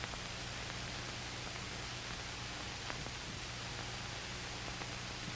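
Steady hiss and low mains-type hum of an old film soundtrack, with a few faint clicks.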